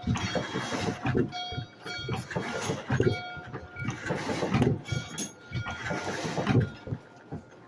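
Lumberjack steam train running: repeated uneven surges of noise with thin, steady ringing tones held underneath, growing quieter near the end.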